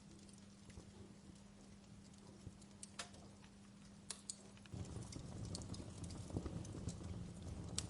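Wood fire crackling in a fireplace: faint, irregular pops and snaps over a low rumble of burning, the rumble growing louder about five seconds in.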